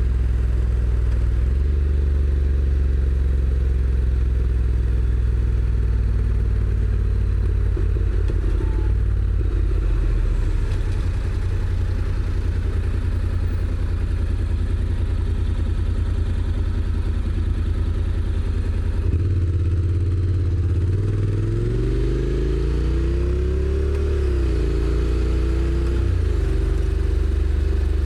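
Honda NC750X's parallel-twin engine running at steady revs, heard from the motorcycle itself. A little past two-thirds of the way in, the revs drop back and then climb as the bike pulls away again. A quick dip in pitch marks a dual-clutch gearbox upshift, after which the revs rise once more and settle into a steady run.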